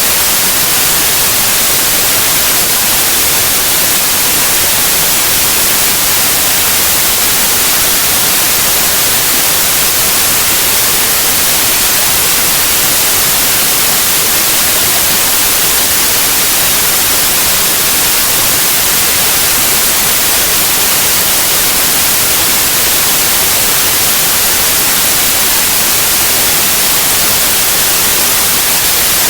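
Steady, loud white noise: an even hiss with no change.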